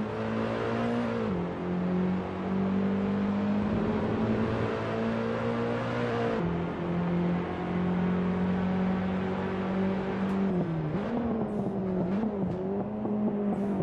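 Car engine pulling hard, its note climbing slowly and then dropping sharply twice, about a second in and again about six seconds in, as at gear changes. Near the end the note wavers up and down, with a few short sharp noises.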